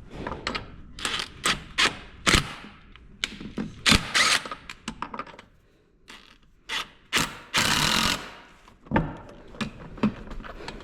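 Irregular metallic clanks and knocks of tools and car parts being handled during wheel and suspension work, the loudest about two and four seconds in, with a short rushing burst of noise near eight seconds.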